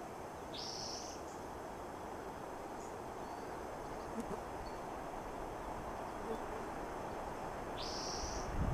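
A bird calling twice, one short high call that sweeps up and then holds, about seven seconds apart, over a steady outdoor hiss.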